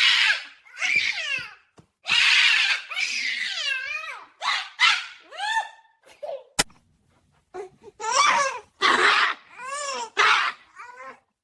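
High-pitched laughter in a string of short squealing bursts, with a single sharp click about halfway through.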